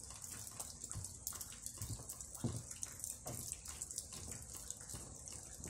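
Steady hiss of rain falling, with a few scattered soft knocks.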